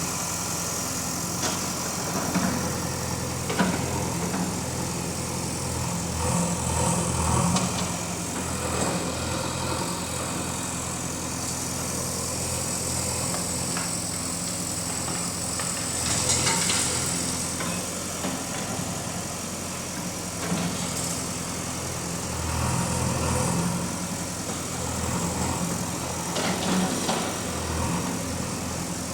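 JCB 3DX backhoe loader's diesel engine running steadily, its sound swelling several times as the machine works, with a sharp knock early in.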